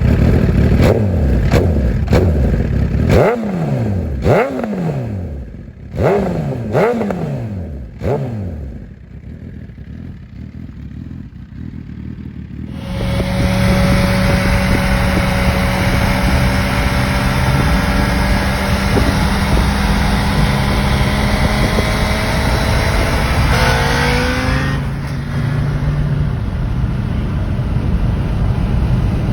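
Suzuki GSX-R1000 inline-four with an M4 GP Series full exhaust revved in a string of about six quick blips, each rising and falling in pitch, then dropping back. About halfway through the sound changes abruptly to a steady engine drone with a faint, slowly rising whine.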